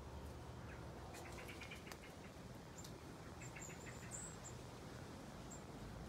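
Faint small-bird calls: two quick chattering runs of notes and a few short, very high chirps, over a low steady background rumble.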